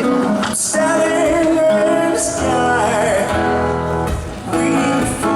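Acoustic guitar strummed in an instrumental passage of an acoustic rock song played live.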